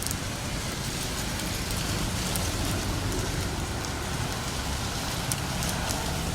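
Steady rain falling, with a low rumble underneath and a few sharp ticks.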